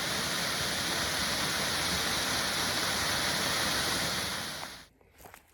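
Steady rushing water, an even hiss that holds level and then stops abruptly about five seconds in.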